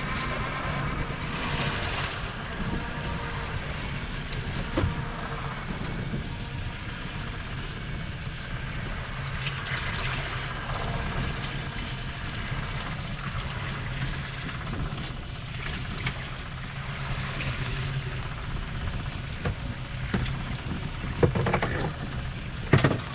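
Fishing boat's engine running steadily under way, a constant low hum over wind and water noise. A few sharp knocks come near the end.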